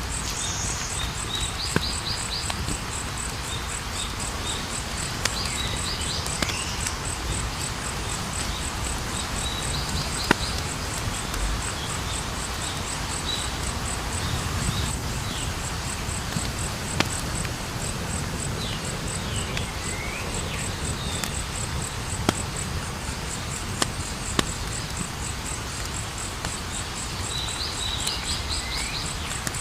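A wood campfire crackling, with sharp pops scattered through a low rustling burn. Crickets trill steadily over it, and a few other short chirps come every few seconds.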